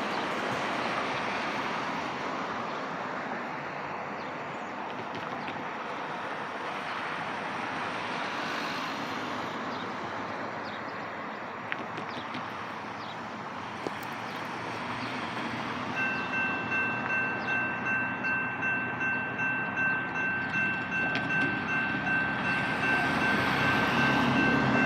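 BNSF freight train rolling along with a steady rumble of wheels on rail. About two-thirds of the way in, a ringing starts in quick, even pulses, typical of a grade-crossing warning bell, and the train grows louder near the end.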